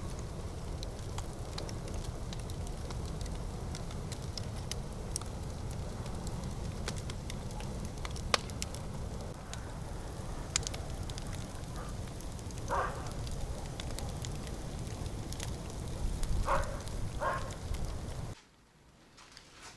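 Bonfire of old wooden railway sleepers burning, with a steady low rushing and scattered sharp crackles and pops; it cuts off abruptly near the end.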